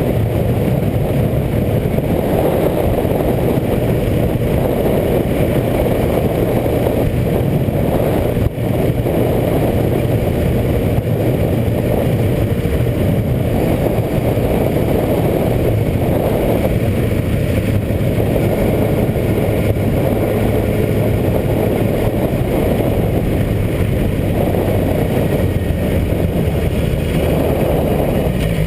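Motorcycle engine running steadily at an even speed under a dense low rumble, with one sharp knock about eight and a half seconds in.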